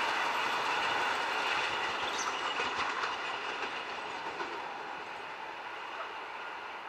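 PKP EN57 electric multiple unit running along the track, its wheels on the rails fading steadily as it moves away.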